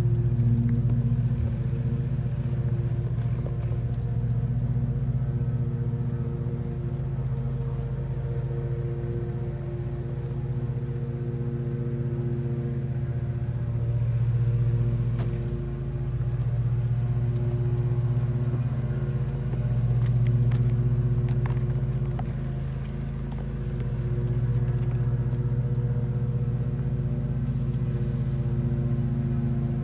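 Steady low mechanical hum from a running motor or engine, swelling and easing slightly in loudness, with a few faint clicks.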